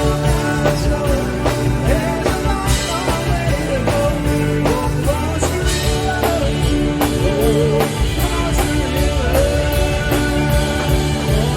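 Live rock band playing an instrumental passage: a lead melody with bending notes over steady drums, bass and sustained chords.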